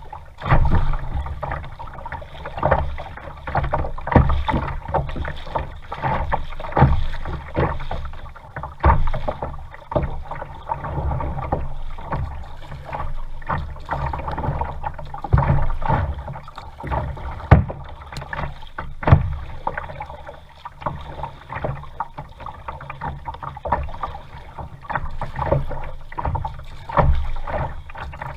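Kayak being paddled on a lake: irregular paddle strokes splashing and knocking every second or two, over a steady low rumble.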